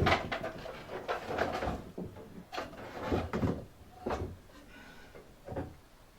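A heavy metal band saw being shifted and handled, giving a series of about six irregular clunks and knocks with some rattling between them.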